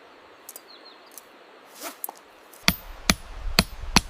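A hammer knocks four times, about half a second apart, driving tent stakes. Before that there is a steady outdoor hiss and a few faint clicks.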